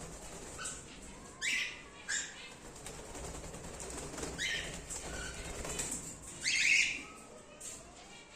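Cockatiels calling in an aviary: several short, sweeping calls, the longest and loudest about six and a half seconds in.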